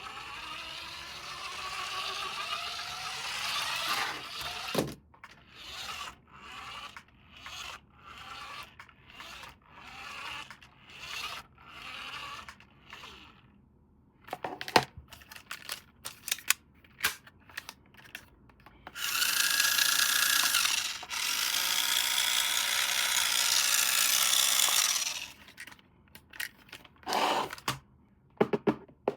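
Unboxing handling noises: packaging and plastic rubbed and scraped, in a string of short strokes with scattered clicks. A louder continuous rushing stretch comes about two-thirds of the way through.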